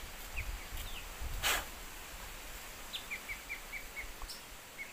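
A small bird chirping in short, high, downward-sliding notes, scattered at first and then a quick run of five about three seconds in. A brief rustle comes about a second and a half in, over faint outdoor background noise.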